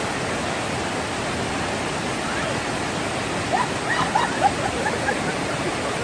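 Waterfall water rushing steadily, with a few brief faint voices about midway.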